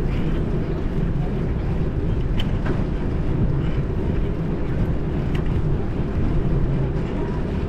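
Steady low rumble of wind on the microphone and road noise from riding a bicycle along a city street, with a couple of faint clicks.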